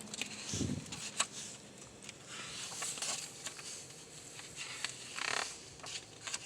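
Soft rustling and light knocks of a picture book being handled and its pages turned, with one dull thump about half a second in.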